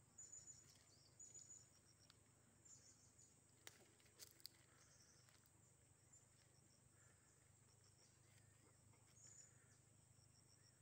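Faint, high chirping calls of birds known locally as turipos, in short runs a second or two apart, with a few sharp clicks about four seconds in.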